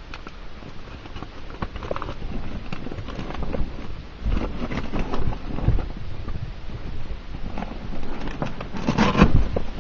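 Recording from inside a car: a low rumble with irregular knocks and rattles, a denser cluster of thumps about nine seconds in.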